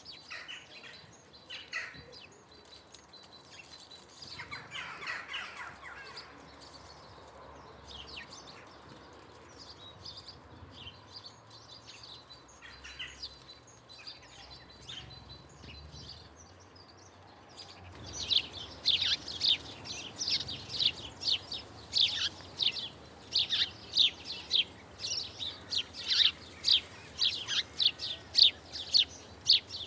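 Small garden birds chirping: scattered high calls at first, then a loud, rapid run of short high chirps, about three a second, through the last third.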